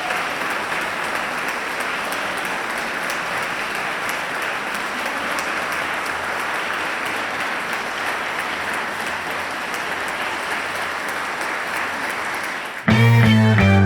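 Steady applause from many people clapping. Near the end it gives way to loud rock music with guitar.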